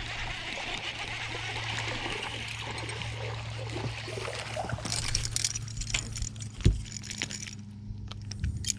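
Water splashing and trickling beside a fishing boat over a steady low hum. In the second half come scattered rattling clicks and one thump about seven seconds in.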